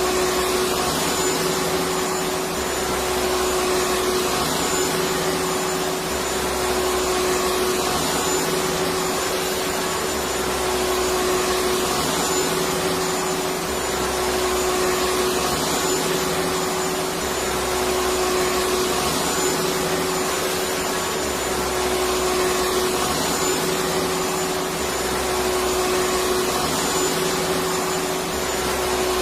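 Electric vacuum cleaner running continuously: a dense, even rush of noise with a steady motor hum, and a low rumble that swells and fades every two to three seconds.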